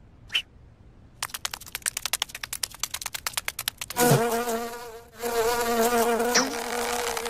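Cartoon insect wing buzz. A run of quick clicks speeds up for about three seconds, then turns into a wavering pitched buzz that breaks off briefly and comes back.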